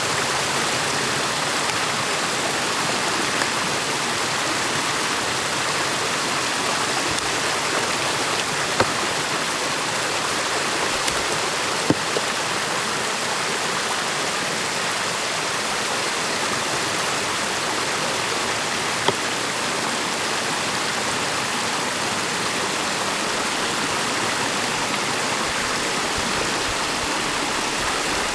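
Stream water rushing steadily, as through a beaver dam, with a few brief sharp knocks about a third and two-thirds of the way in.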